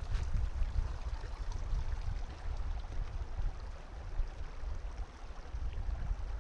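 Outdoor nature ambience: an uneven low rumble under a faint, steady hiss, with a few faint ticks.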